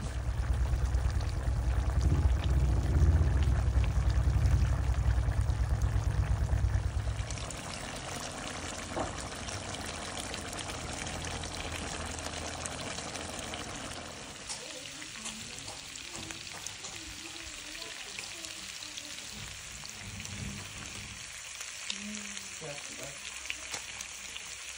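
Duck meat sizzling and bubbling in a wok over a wood fire, with a loud low rumble for the first seven seconds, after which a steady sizzle of frying carries on as the gravy cooks down.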